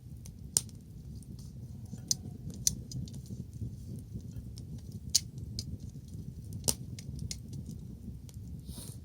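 Wood bonfire crackling, with irregular sharp pops and snaps over a low steady rumble; the loudest pops come about half a second in, around two and three seconds, and near five and seven seconds.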